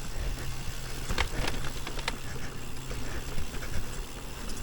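Electric mountain bike riding over rough trail: steady tyre and trail noise with wind on the microphone, and a few sharp knocks and rattles from the bike in the first half.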